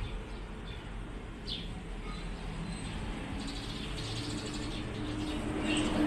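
A few short bird chirps over steady background noise, with a low steady hum coming in about four seconds in.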